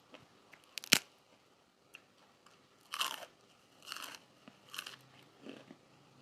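Close-up eating of crunchy food: a sharp snap about a second in, then three crunching bites about a second apart and a softer chew after them.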